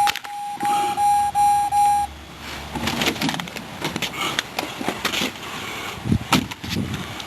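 Jeep Grand Cherokee's warning chime beeping rapidly, about three beeps a second, right after the engine is shut off, then stopping about two seconds in. Scattered clicks and knocks follow, one louder knock about six seconds in.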